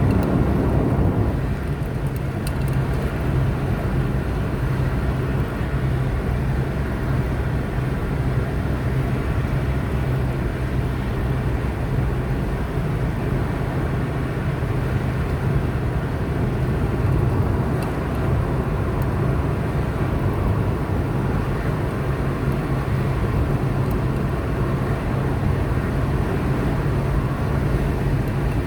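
Car driving steadily along a road, a constant low engine hum under even tyre and road noise.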